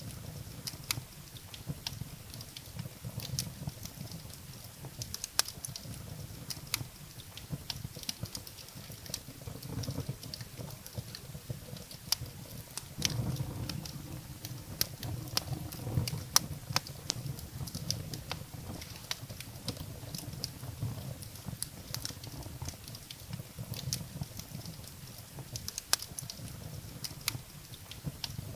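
Wood fire burning in a fireplace: irregular sharp crackles and pops of burning firewood over a low, uneven rumble of the flames.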